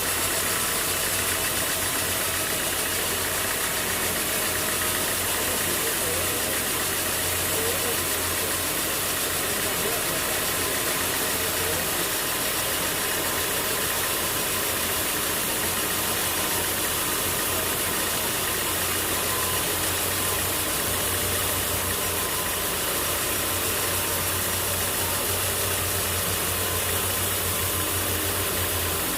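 An engine running steadily at constant speed: a low hum under a steady hiss, with no change in load.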